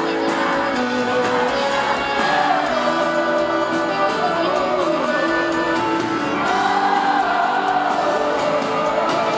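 Live sertanejo band music with singing, playing continuously.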